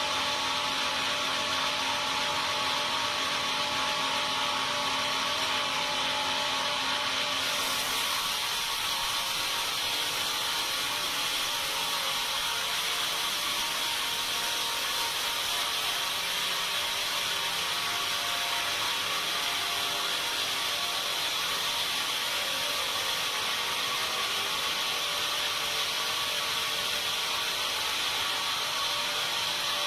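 Sawmill saw running steadily as it cuts timber, with a steady hum and whine. About seven seconds in, the sound shifts: a low hum drops out and the hiss brightens.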